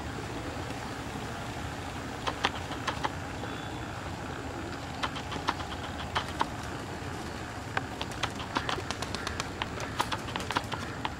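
Small birds chirping in short, irregular calls over a steady low background noise.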